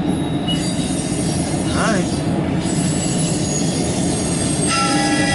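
Empty autorack freight train rolling past, a steady rumble and rattle of wheels on rail. A short gliding tone about two seconds in, and high steady tones come in near the end.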